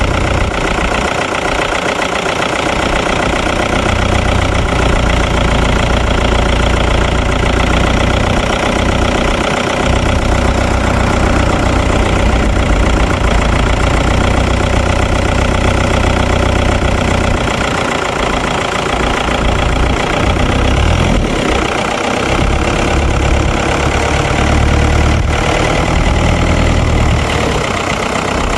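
New Holland TN90F tractor's diesel engine running steadily at low revs, its low rumble growing louder for stretches and easing off between them.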